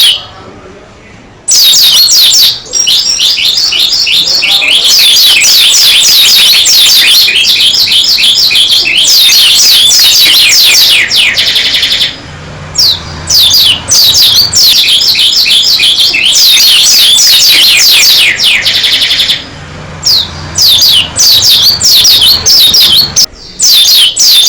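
White-eye (pleci) singing vigorously: long, rapid runs of high, falling chirps that last several seconds, broken by short pauses, then shorter phrases near the end.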